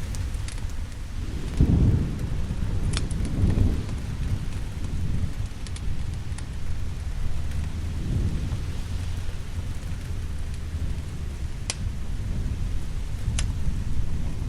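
Steady rain with low rolling thunder rumbles, the biggest swell a couple of seconds in and another about halfway through. A few sharp pops stand out here and there.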